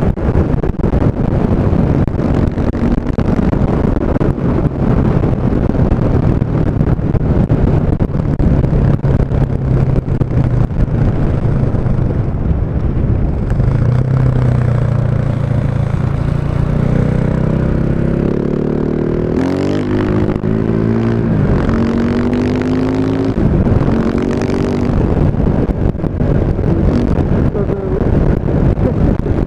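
KTM 690 Enduro's single-cylinder engine through an Akrapovic exhaust, running at a steady note, then rising and falling in pitch several times about two-thirds of the way through as it is revved or accelerated.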